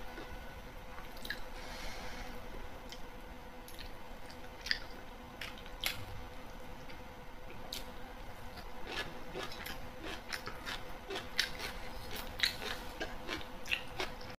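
A person chewing and biting food, with many short irregular mouth clicks, over a faint steady hum.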